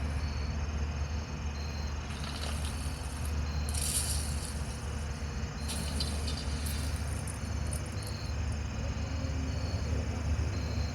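Insects chirping at night, one short high chirp about once a second, with brief louder high buzzes a couple of times, over a steady low hum.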